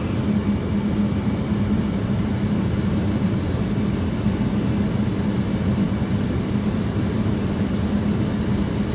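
Goodman gas furnace running with its burners lit: a steady drone of motor and gas flame with a constant low hum.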